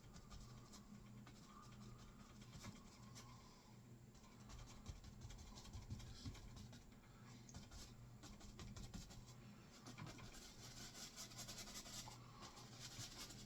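Faint scratchy brushing of a 1-inch paintbrush dabbing and rolling oil paint onto a wet canvas, the strokes getting busier near the end. A faint low hum runs underneath, from a refrigerator.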